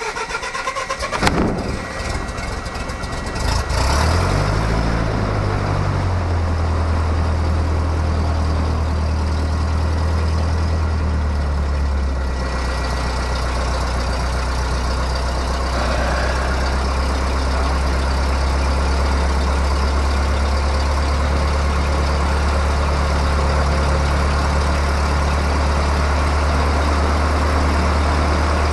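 Cessna 152's Lycoming O-235 four-cylinder engine being started: a few seconds of cranking, then it catches about four seconds in, its speed wavers for a couple of seconds and settles into a steady idle.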